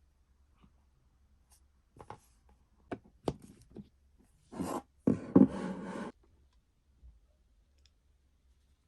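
Handling noises: several light clicks and knocks, then a rustle lasting about a second and a half, from objects being moved and handled.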